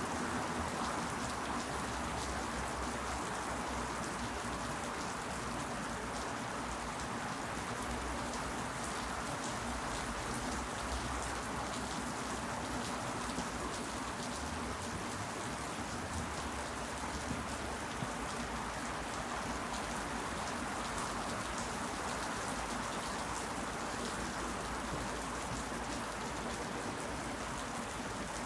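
Steady rain falling: a dense, even hiss of drops with fine pattering ticks.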